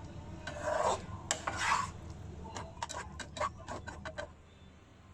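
Two short scraping rubs, then a quick run of light taps and clicks, like utensils and dishes being handled.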